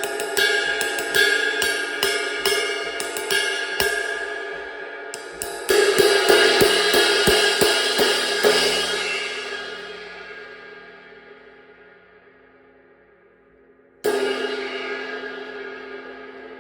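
Zildjian K Constantinople Medium Ride 22-inch cymbal played with sticks. It opens with a run of quick ride strokes; from about six seconds in a burst of harder strokes builds a wash that rings and fades away over about five seconds. About fourteen seconds in a single strike rings out and slowly decays.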